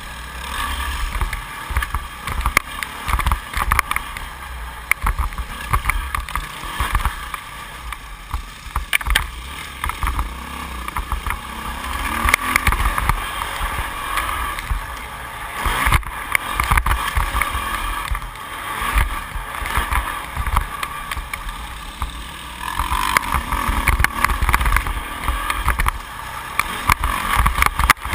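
2008 Yamaha YZ450F's single-cylinder four-stroke engine revving up and easing off again and again as the bike is ridden round a motocross track, with a low rumble and frequent short knocks.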